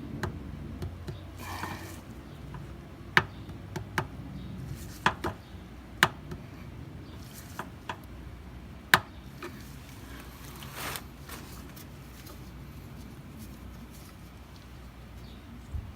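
Scattered sharp clicks and taps from a flathead screwdriver working a plastic oil drain plug into the oil pan, irregular and a second or so apart, with two brief hissing rustles.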